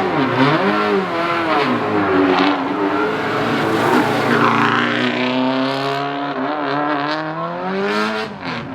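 Rally car engine revving hard: the pitch swoops up and down at first, then climbs in a long run as the car accelerates, falling away near the end.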